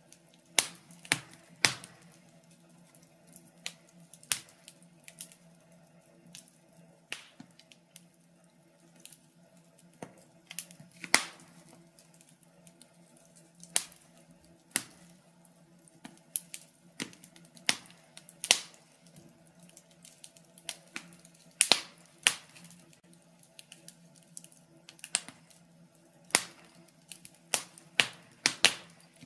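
Wood fire crackling in a fireplace: sharp pops and snaps at irregular intervals, sometimes several in quick succession, over a faint steady hum.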